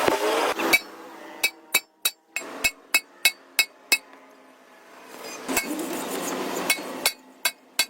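Repeated sharp metallic knocks with a short ring, about three a second, in two runs with a pause of about two seconds between them.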